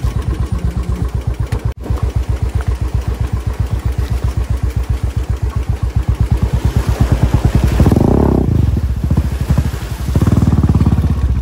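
Motorcycle engine running under way, its steady beat quickening, with two louder surges of throttle about eight and ten seconds in.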